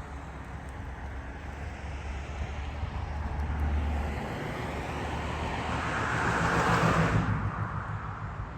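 A motor vehicle's steady low engine hum, then tyre and engine noise swelling as a vehicle passes close by, loudest about seven seconds in before dropping away sharply.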